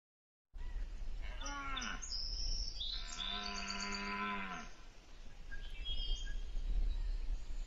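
Deer calling: a short call falling in pitch, then a longer, moo-like call held steady for about a second and a half, over a low steady rumble.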